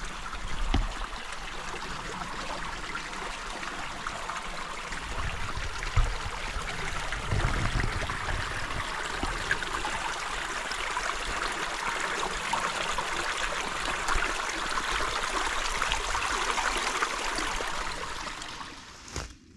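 Shallow stream flowing and babbling steadily, with a couple of low thumps about six and seven and a half seconds in; the water sound cuts off just before the end.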